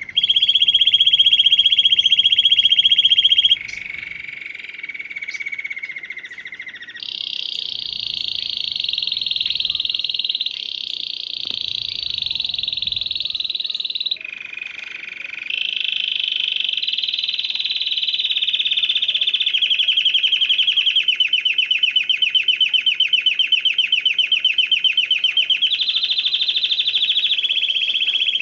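Domestic canary singing a long song of rolled trills, each held for a few seconds before switching to a new pitch; the rolls become slower and clearly pulsed in the second half.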